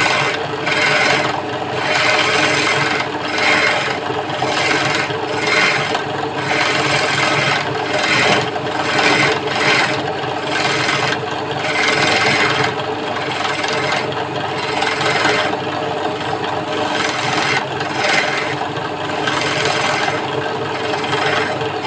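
A wooden stool leg spinning on a wood lathe while a cutting tool scrapes it, in uneven strokes roughly a second apart, over the steady hum of the running lathe.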